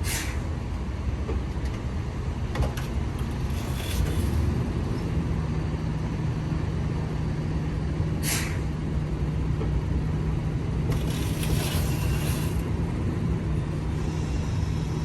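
Tractor-trailer's diesel engine running slowly while the trailer tandems are being slid, with several short air hisses and a longer hiss of air a little after eleven seconds in. The engine note settles into a steady hum about four seconds in.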